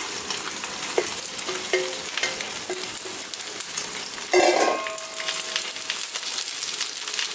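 Egg and chopped napa cabbage sizzling in oil in a non-stick frying pan, with chopsticks clicking against a stainless steel bowl as the cabbage is scraped out. About four seconds in, a brief metallic clatter with a ringing tone that dies away.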